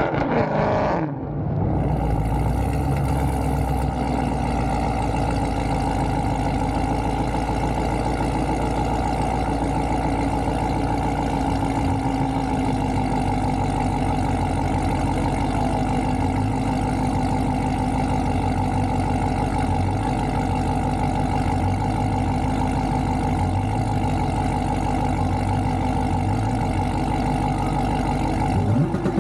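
Car engine running steadily at a constant speed, holding one unchanging pitch.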